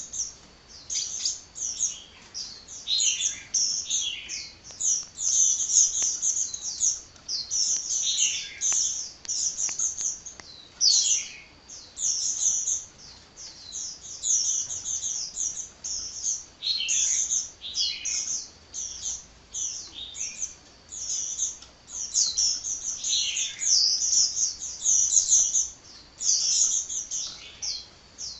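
A sunbird (Indonesian 'kolibri') singing a continuous, rapid, high-pitched twittering of short chirps and trills, with hardly a pause.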